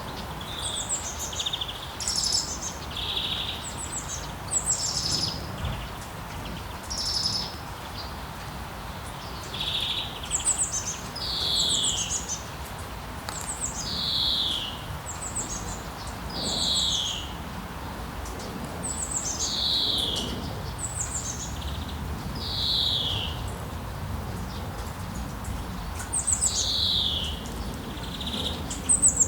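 Songbird singing a repeated phrase every two to three seconds: high notes sweeping downward, mixed with short buzzy notes, over a steady background hiss of rain.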